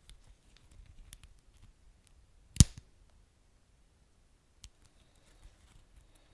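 Wood fire crackling: scattered small snaps, with one loud sharp pop about two and a half seconds in and a smaller one a couple of seconds later.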